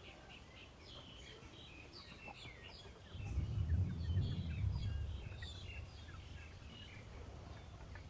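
Birds chirping in many short, high calls, with a low rumble that swells about three seconds in, lasts about two seconds and is the loudest part.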